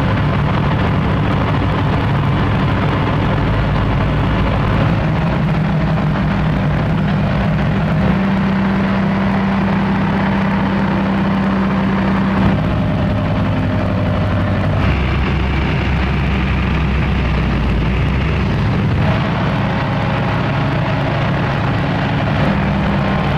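Heavy diesel engine running steadily, its pitch stepping up and down a few times.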